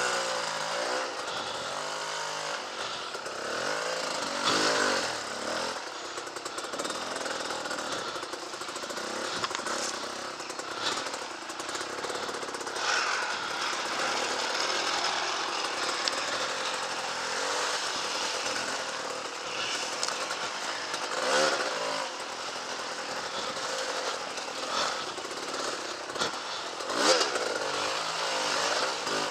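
Two-stroke Honda CRM250 trail bike engines running at low speed, blipped in short revving bursts a few times, the strongest near the end, as the bikes pick through deep mud.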